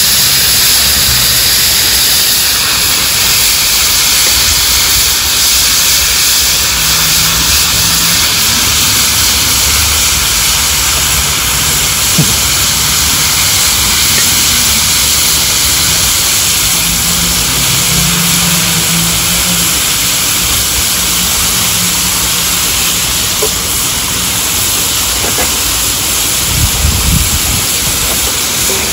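Diced steak and raw chicken pieces frying on a hot flat-top griddle: a loud, steady sizzle.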